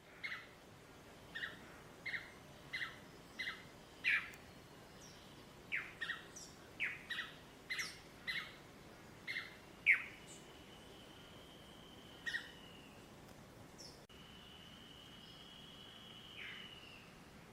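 Several wild forest birds calling: a quick series of short, sharp two-note chirps and steeply falling notes, then two long, steady high whistles in the second half.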